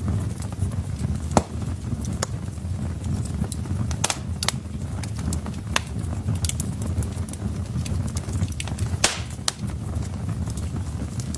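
Wood fire burning in a fireplace: irregular sharp crackles and pops over a steady low rumble of flames. Two louder pops stand out, one about a second in and one near the end.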